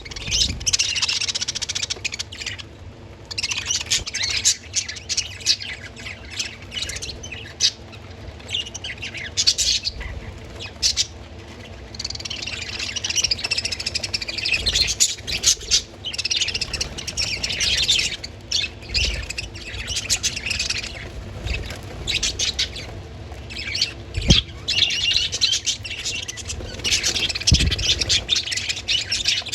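Budgerigars chattering and chirping almost without pause, several birds at once, with harsher squawks mixed in and a few short lulls. A couple of low bumps come near the end.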